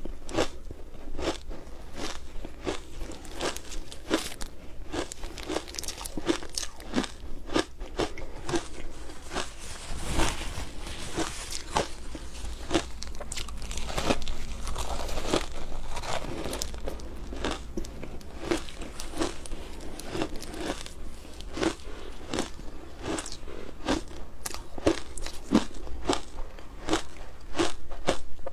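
Ice being bitten and chewed close to the microphone: a steady run of sharp, crunchy bites, about two to three a second.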